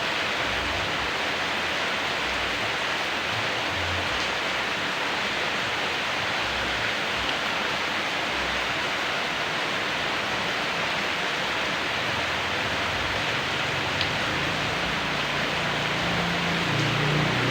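Steady rainfall, an even hiss that does not change. A low hum comes in faintly near the end.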